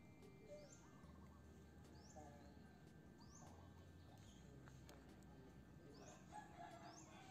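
Faint bird calls: a short rising chirp repeated every second or so, with lower calls in between.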